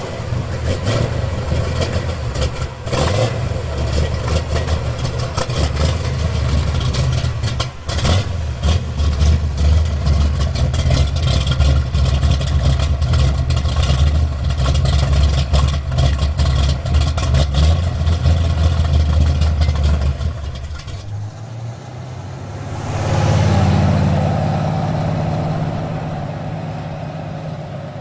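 Car engine running with a loud, deep rumble and a few brief revs, cutting off about 21 seconds in. About two seconds later another vehicle sound swells and fades away.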